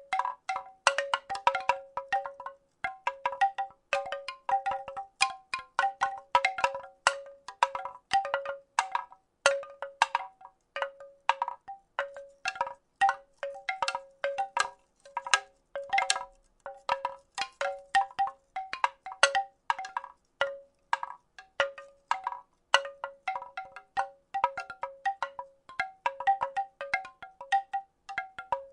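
Wooden rattle shaken steadily: quick clusters of wooden clacks, each with a short pitched ring, repeating without pause.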